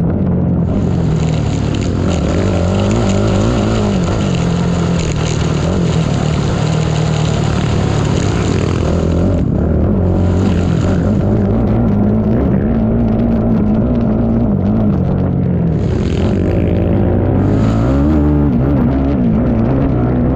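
Racing ATV engine under hard riding, its pitch rising and falling again and again with the throttle. A high rushing noise comes in for most of the first half and returns in short bursts later.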